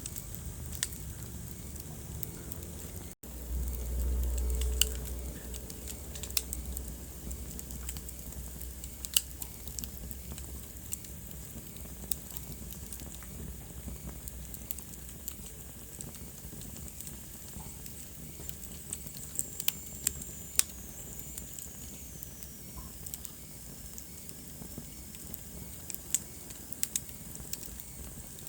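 Wood fire burning in a fireplace: a steady soft hiss with frequent sharp crackles and pops. About three seconds in the sound drops out for an instant, then a low rumble runs for about two seconds; later a faint high whistle slides down in pitch.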